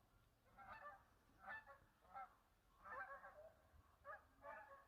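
A flock of geese in flight honking, faint and distant, with about seven separate calls in a few seconds.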